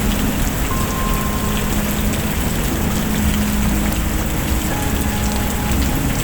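Steady heavy rain with a low rumble under it, and a few faint crackles from a wood fire.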